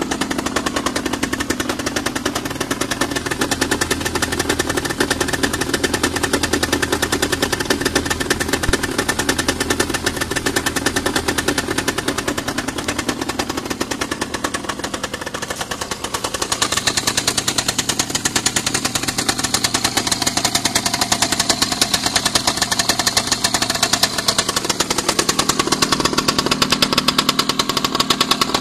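1997 Aprilia RS 50's 50 cc two-stroke single-cylinder engine idling after a cold start, a rapid steady popping rattle. About halfway through the sound turns brighter and thinner.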